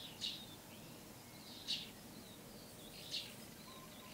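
Small songbird calling outdoors: three short, high chirps about a second and a half apart, with fainter twittering between them over a quiet background hiss.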